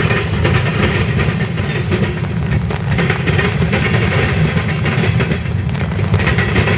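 A grain train's freight cars rolling past, with a steady heavy rumble of steel wheels on rail and scattered clicks as the wheels cross rail joints.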